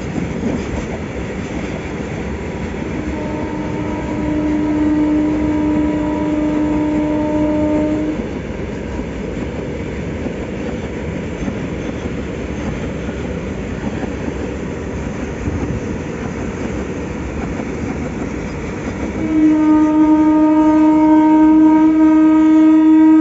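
Freight train wagons rolling past with a steady rumble and clatter of wheels on rail. The electric locomotive's air horn sounds a long steady blast about 3 s in, lasting about five seconds, and a louder one starting near the end.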